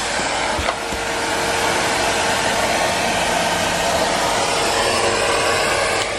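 Numatic Henry Pet canister vacuum cleaner running steadily: a rushing whoosh of motor and suction airflow with a steady whine under it.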